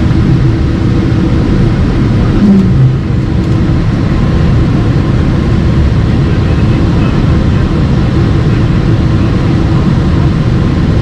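Loud, steady engine rumble heard from inside a vehicle, with a brief low thump about two and a half seconds in.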